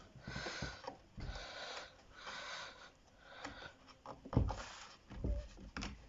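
Handling noise from fitting parts to the base of a flat-pack wardrobe: soft rhythmic scraping about once a second, then a couple of dull thumps about four and five seconds in.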